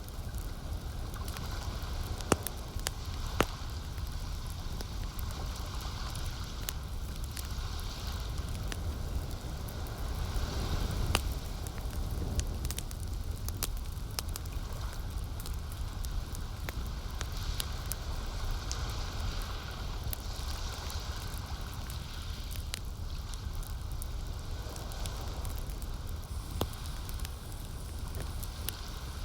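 Campfire crackling, with many sharp pops and snaps scattered throughout, over a steady low wash of lake water.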